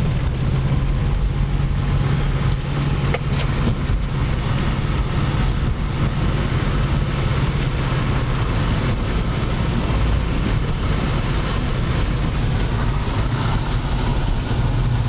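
Car driving on a snow-covered, partly plowed highway, heard from inside the cabin: a steady low engine hum under continuous tyre and road noise.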